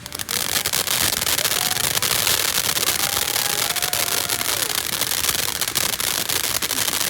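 Consumer fireworks crackling, a dense rapid stream of small pops that starts suddenly and keeps going at a steady loudness.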